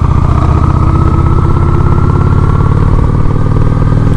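Honda Shadow 750 ACE's V-twin engine running at a steady cruising speed, its pitch holding even with no revving.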